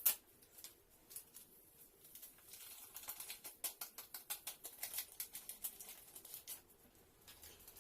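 Light, rapid clicks and taps of kitchen utensils against a mixing bowl, several a second through the middle, with one sharper click at the very start.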